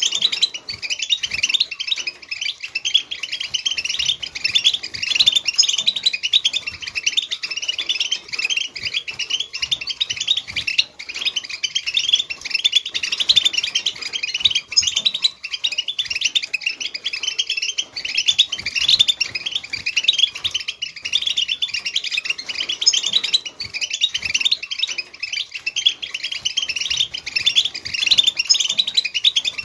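European goldfinch twittering: a continuous, rapid chatter of quick high chirps and trills with no breaks, the kind of song keepers play to stir a silent caged goldfinch into singing.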